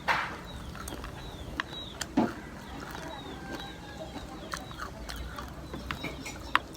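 Birds chirping in many short, falling calls, with scattered sharp clicks and a couple of brief noisy bursts, one right at the start and one about two seconds in.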